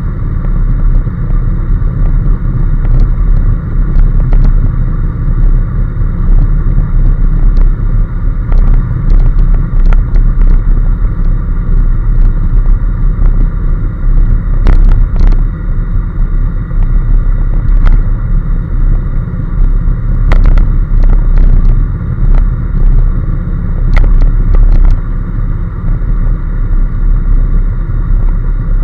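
Honda NC750S motorcycle ridden at a steady speed: heavy wind rumble on the microphone over the engine and road noise, with no revving, and a few sharp clicks here and there.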